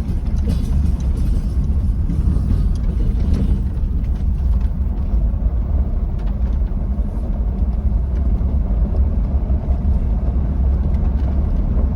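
2004 Ford F-150 Heritage engine running with a steady low rumble, still running poorly and struggling after an EGR vacuum solenoid replacement, as the owner judges it.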